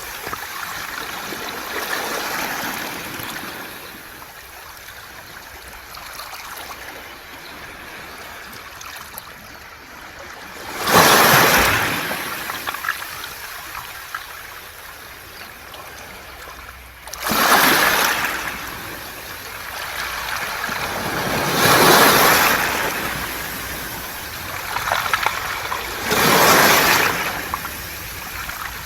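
Waves washing up a beach of round pebbles (mongdol). Four surges come about five seconds apart, the loudest about eleven seconds in, with the wash of water running back over the stones in between.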